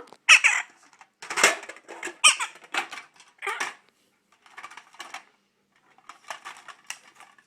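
Macaw giving a run of short, squeaky calls, then light scattered clicking from about four seconds in.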